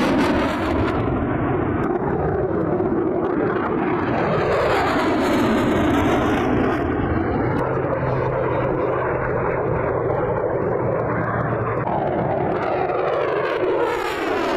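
Jet aircraft flying past, its engine noise steady and loud with slowly sweeping tones as it moves through the sky.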